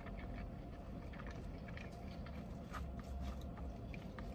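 Quiet eating sounds inside a car: soft chewing and scattered small clicks and taps, over a steady low rumble.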